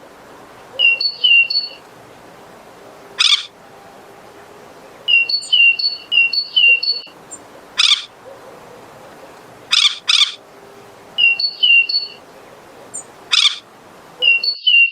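A robin calling in repeated short phrases of clear paired whistled notes at two pitches, alternating with short, loud, harsh rasping bursts that are the loudest sounds. The pattern repeats in an even cycle.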